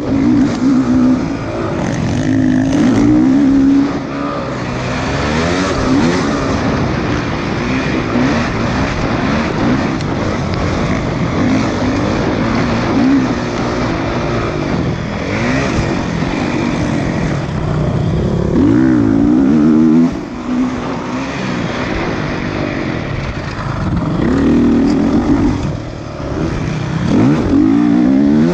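Motocross bike engines revving up and down over and over, several overlapping, as the bikes race around the track.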